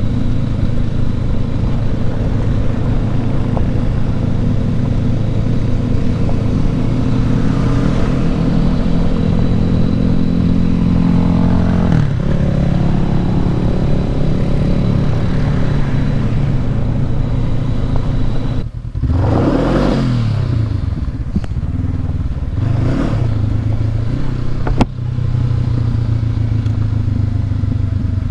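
Honda CB500X parallel-twin motorcycle engine running under way on a rough dirt road, with the revs climbing about halfway through and dropping and picking back up twice later on. A sharp click sounds once near the end.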